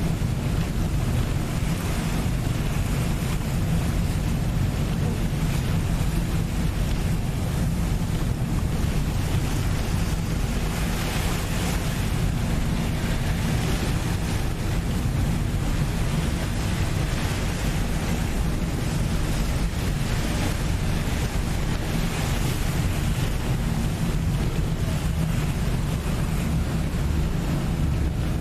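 Passenger boat under way: a steady low engine drone with water rushing along the hull and wind buffeting the microphone, the rushing swelling now and then.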